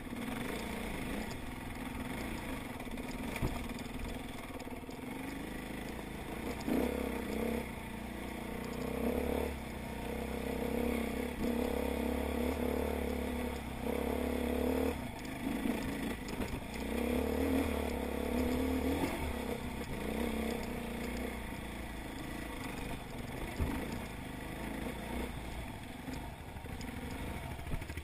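Enduro dirt bike's engine running on a rough rocky climb, the throttle opened and eased in spurts so the revs rise and fall, with occasional knocks from the bike over the stones.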